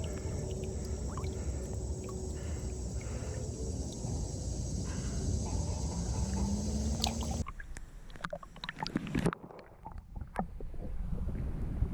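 Steady rushing of creek water with small handling clicks. It cuts off abruptly about seven seconds in, leaving a quieter stretch with scattered clicks before the rushing noise returns near the end.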